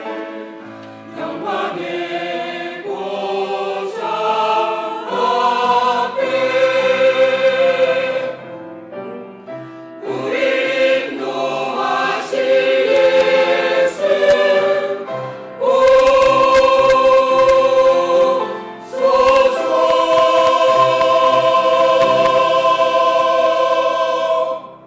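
Church choir singing a Christmas cantata in harmony, phrase by phrase with short breaks, closing on a long held chord that cuts off sharply near the end.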